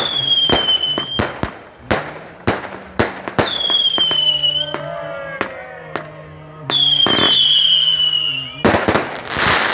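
Fireworks going off in quick succession: many sharp bangs, three whistling fireworks each with a whistle about a second or two long that falls slightly in pitch, and a dense burst of crackle near the end.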